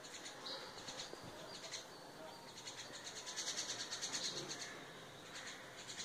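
Birds chirping faintly in quick runs of high repeated notes, loudest a little past the middle.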